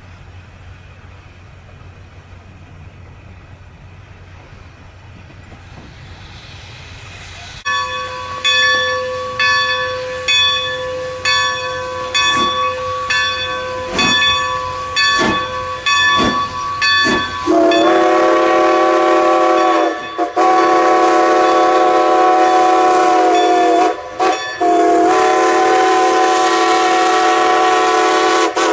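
A railroad bell rings repeatedly, about one stroke a second, over a rising hiss as a train approaches. Then the train sounds a loud multi-note chime chord in long blasts, broken twice by short gaps.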